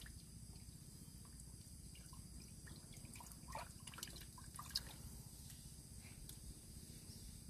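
Faint Amazon rainforest field recording: a steady high insect hum over a low rumble, with scattered small clicks and brief faint calls that cluster about halfway through.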